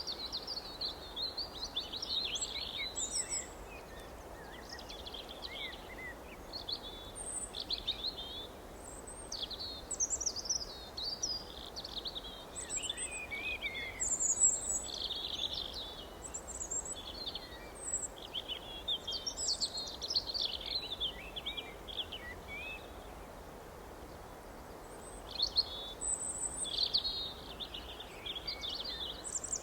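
Several small birds singing and chirping in quick overlapping high trills and twitters, with a brief lull about three-quarters of the way through, over a steady background hiss.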